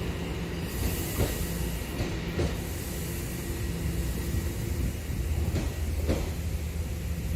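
TTC subway train running, its motors giving a steady hum, with a few sharp clicks of the wheels over rail joints.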